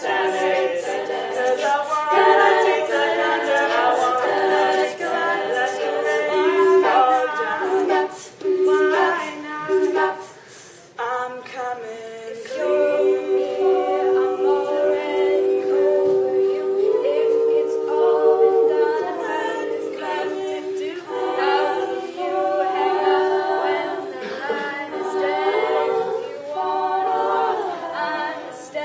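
A cappella group of female voices singing in harmony, with no instruments. The singing thins out and drops in level about ten seconds in, then comes back about two seconds later on a long held chord.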